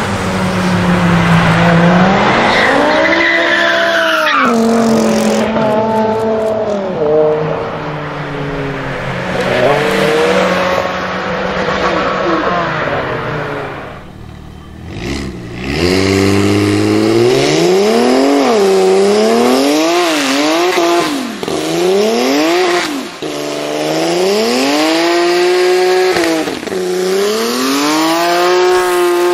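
A BMW saloon's engine accelerating hard and pulling away, its note rising and then falling. After a break, a black BMW E91 3 Series Touring doing a burnout: the engine revs up and down again and again while the rear tyres spin and squeal.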